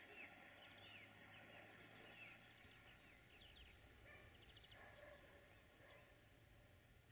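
Faint outdoor ambience with small birds chirping in short, quick calls, and a low steady hum underneath.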